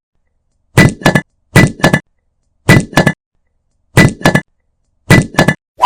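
Sharp knocks in quick groups of two or three, five groups about a second apart, each strike with a short ringing tone, and dead silence between the groups.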